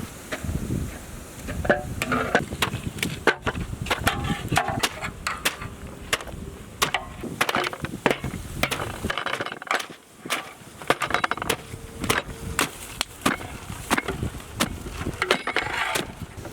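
Irregular knocking and clattering, several knocks a second, over a low steady rumble.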